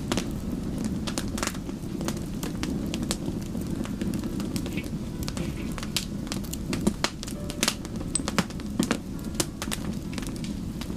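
Wood fire burning: irregular sharp crackles and pops of burning wood over a steady low rush of flames.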